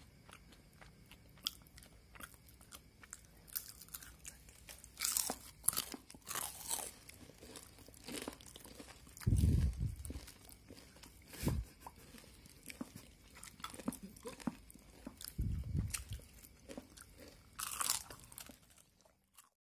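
Crispy deep-fried onion rings, battered and breadcrumb-coated, being bitten and chewed with irregular crisp crunches and a few low thumps.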